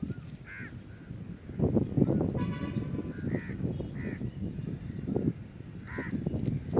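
A bird calling outdoors, four short calls spread over the few seconds, over loud low rumbling noise that swells about a second and a half in.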